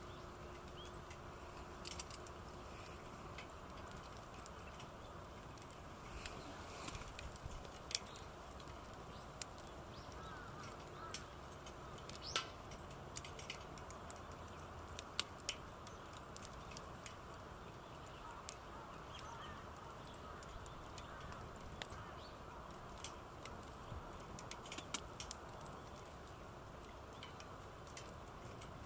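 Small wood campfire crackling, with sharp irregular pops; faint bird calls in the background.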